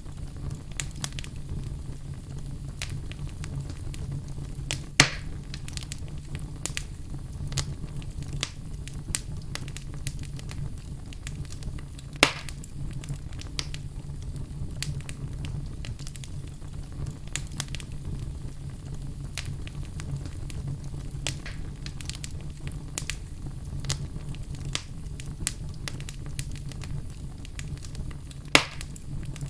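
Wood fire burning in a fireplace, crackling steadily with many small snaps and three louder pops, about 5, 12 and 28 seconds in.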